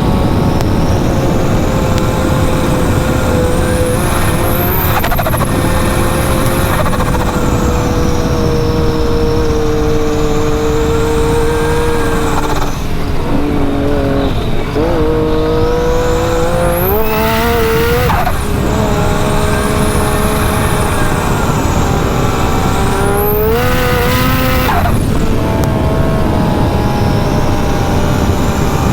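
Big-turbo Yamaha YXZ side-by-side engine running hard, its note climbing sharply twice, about halfway through and again two-thirds of the way in. A high turbo whistle rises and falls over the engine throughout.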